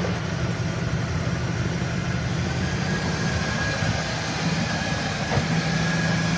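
Classic car engine idling steadily with a low rumble, just after being started.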